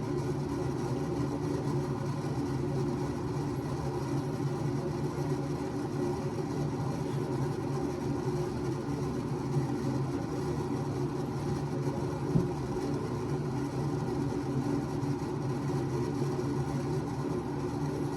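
A steady mechanical hum, like a motor running, with a few fixed tones that hold unchanged throughout; a single short click about twelve seconds in.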